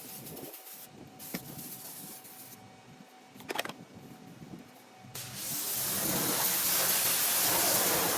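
Electric pressure washer spraying: a quieter hiss of water with a few small clicks, then a loud, steady spray from about five seconds in.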